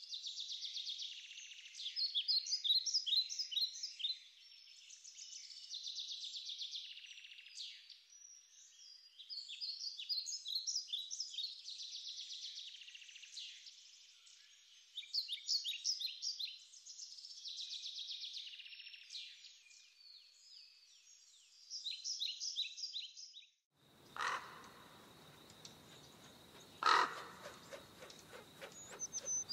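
Songbirds singing: repeated phrases of quick, high notes that come every couple of seconds. About 24 seconds in, this gives way to a hissing outdoor background with a steady high tone, a single sharp click a few seconds later, and a brief bird chirp at the end.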